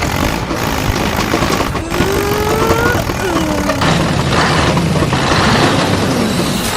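Engine sound of a mini model tractor running over a dense, rushing background noise, with a steady low hum coming in about four seconds in.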